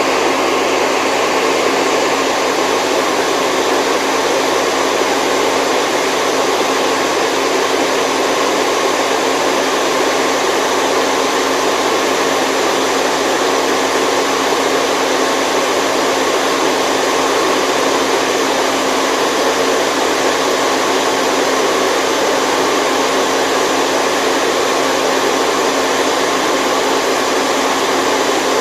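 Steady white noise for sleep: a continuous even rushing hiss that does not change.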